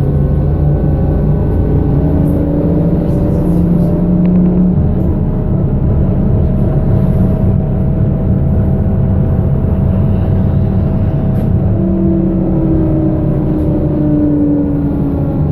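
BKM-221 trolleybus running: the traction motor and electrical gear whine over road and body rumble, rising in pitch as it gathers speed and falling again near the end.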